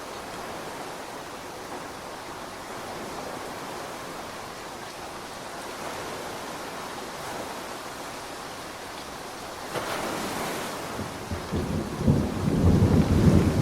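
Steady rain hiss; about ten seconds in, a low rumble of thunder builds and grows loud near the end.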